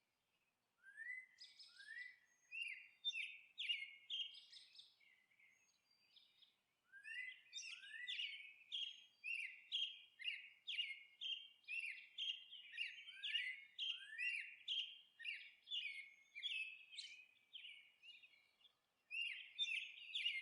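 Small birds chirping faintly in quick runs of short rising chirps, a few a second. There is a pause of about two seconds near the start and a short one near the end.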